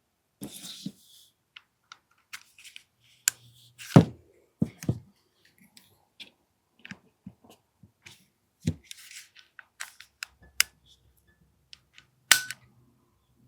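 Parts of an AAP-01 airsoft pistol clicking and knocking as it is put back together by hand: a series of irregular sharp clicks and taps, the loudest about four seconds in and again near the end.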